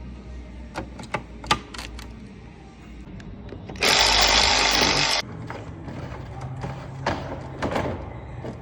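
Workshop tool noises: scattered sharp clicks and knocks over a steady low hum, with a loud hiss lasting about a second and a half near the middle.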